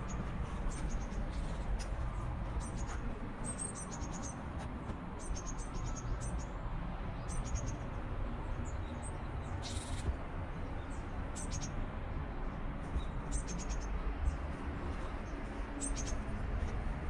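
Small birds chirping outdoors: short, high calls in quick little clusters, repeating every second or so, over a steady low background rumble.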